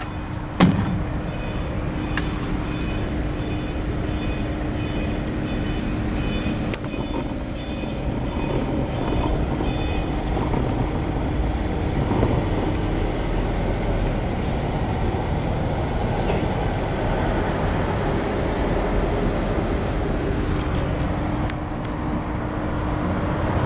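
Cummins GTA855 natural gas generator engine running steadily. A sharp click comes about half a second in, and a series of high beeps, a little under two a second, sounds for the first ten seconds or so.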